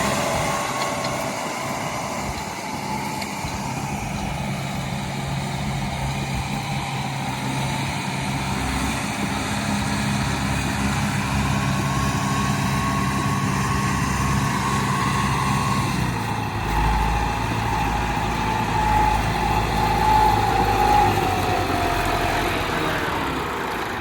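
Massey Ferguson tractor's diesel engine running steadily. Its low note changes about two-thirds of the way through, and a higher whine drops in pitch and fades near the end.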